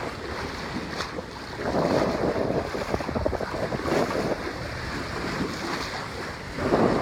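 Wind buffeting the microphone over the rush of water along a sailboat's hull while it sails upwind, swelling louder about two seconds in.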